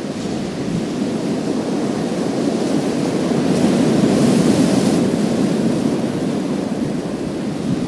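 Sea waves breaking and washing over a pebble beach, a steady surf that swells about halfway through as a wave comes in, with a brighter hiss of water running through the stones.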